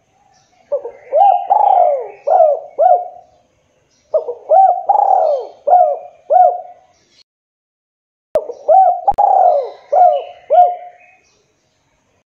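Spotted dove (tekukur) cooing: three repeated phrases of about five notes each, a couple of seconds apiece with short pauses between.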